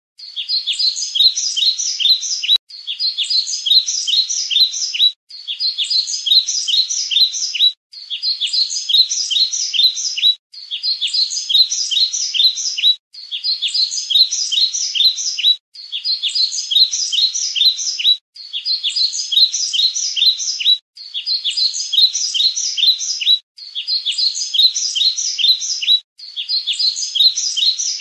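Bird chirping: a phrase of quick, high chirps that repeats in the same form about every two and a half seconds, with a short break each time, like a looped recording.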